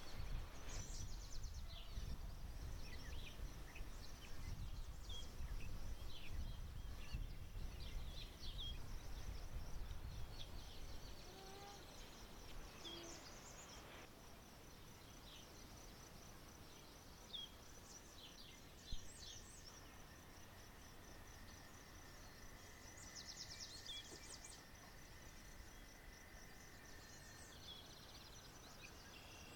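Birds chirping and calling in quiet outdoor ambience, with many short high chirps scattered throughout. A low rumble underneath fades out about ten seconds in, and a faint steady high tone holds for several seconds after the halfway point.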